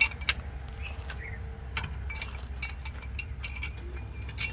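Irregular light clinks and rattles, like small hard objects knocking together, over a steady low rumble.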